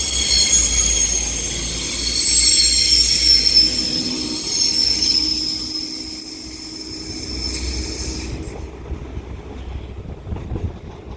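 Two coupled Class 197 diesel multiple units pulling away, with a low engine rumble and a high wheel squeal that cuts off about eight seconds in. The sound fades as the train moves off.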